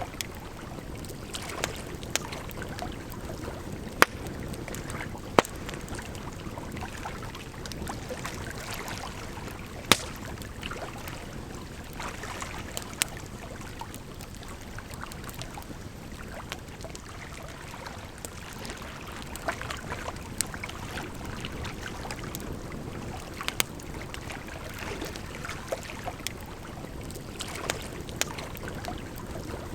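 Wood campfire crackling, with irregular sharp pops and snaps, a few of them loud, over the steady rush of running water.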